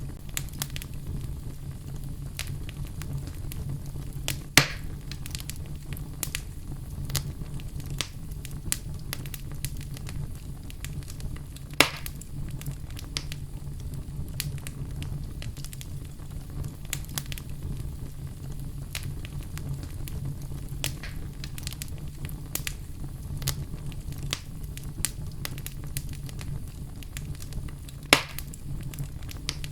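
Wood fire in a fireplace crackling steadily over a low, even rumble of flame, with frequent small snaps and three louder pops.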